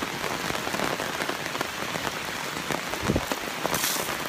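Steady rain pattering on a tarp overhead and the surrounding forest, dense with small drip ticks, with a brief dull thump about three seconds in.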